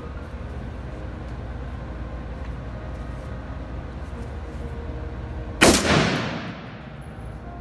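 A single shot from an AR-15-style rifle a little past halfway through, ringing and echoing off the walls of an indoor range, over a steady low hum.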